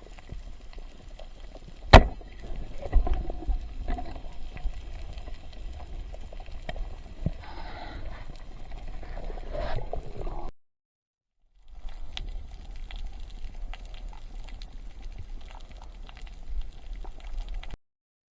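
Water sloshing and gurgling over a steady low rumble, with scattered knocks and one sharp knock about two seconds in. The sound cuts out completely twice.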